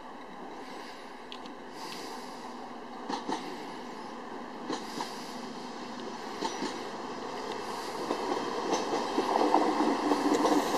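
Mitteldeutsche Regiobahn regional multiple-unit train rolling in past the platform, its wheels clicking over rail joints and points. The rumble grows steadily louder as it draws near.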